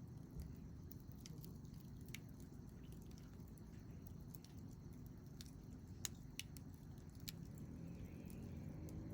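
Wood campfire burning with a low steady rumble and scattered sharp crackles and pops, a few of them standing out in the middle of the stretch.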